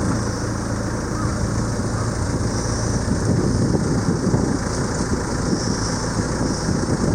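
Boat engine running steadily under way. From about three seconds in, a rushing noise of wind and water grows over it.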